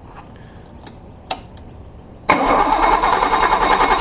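Starter motor cranking the Datsun 280Z's L28 fuel-injected straight-six, beginning suddenly about two seconds in with a fast, even pulsing and not yet catching: a hard cold start.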